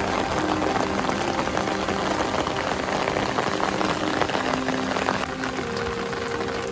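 Steady rainfall pattering densely on surfaces, with soft background music of held notes underneath.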